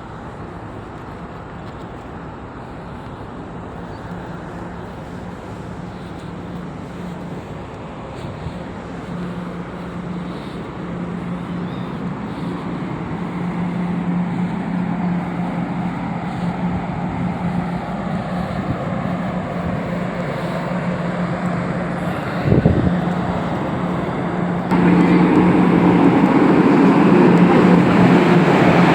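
A vehicle's engine running with a steady low hum over a rushing noise, growing gradually louder and stepping up sharply near the end.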